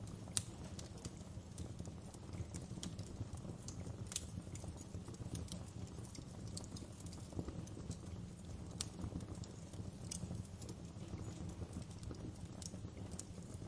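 Wood fire burning in a fireplace: a steady low rumble of flames with irregular sharp crackles and pops from the burning logs and embers, a few louder pops about half a second, four seconds and nine seconds in.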